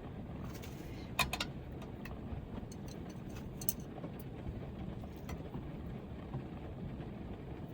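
Heavy rain falling steadily on the roof of a van, heard from inside, with a few sharp light clicks about a second in and again near four seconds.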